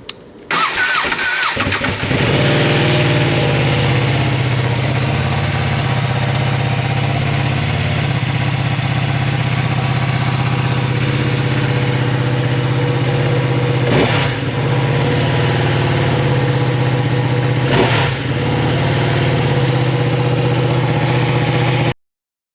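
Ducati Panigale V2's 955 cc Superquadro V-twin, on its stock exhaust, cranked by the starter and catching after about a second, then idling steadily. Two brief throttle blips come about four seconds apart, and the sound cuts off suddenly near the end.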